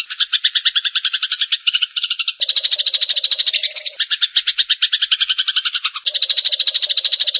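Sparrows chattering in a rapid, unbroken run of harsh chirps, a dozen or so a second: the agitated chatter of sparrows fighting. The chatter changes character abruptly a few times, as if the recording were spliced.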